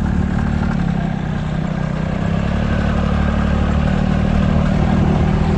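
Engine of a small site runabout vehicle running steadily at an even speed while being driven, heard from on board as a constant drone.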